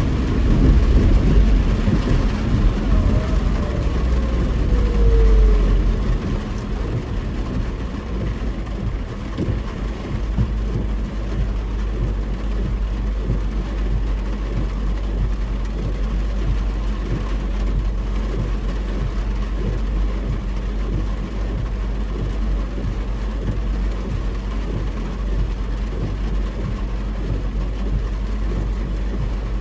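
Car interior noise while driving in heavy rain: steady low road and engine rumble with the hiss of wet tyres and rain. It is louder for the first few seconds, with a tone falling in pitch, then settles to an even level.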